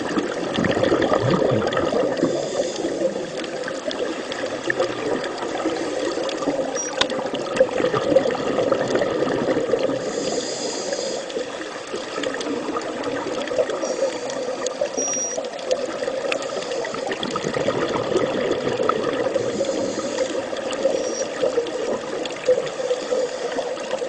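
Water moving steadily, a continuous rushing and trickling with small irregular ticks.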